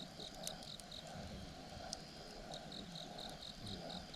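Campfire burning with sharp crackles and pops now and then, over insects chirping in a rapid, even pulse of about five chirps a second that pauses for a second or so midway.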